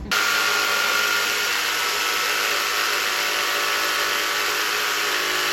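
Electric power saw running steadily while cutting wood. It starts suddenly and is loud and even throughout.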